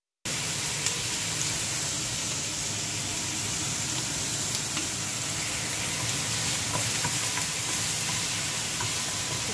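Onion and tomato pieces sautéing in a stainless steel pot: a steady sizzle with a few small pops, with a wooden spoon stirring near the end.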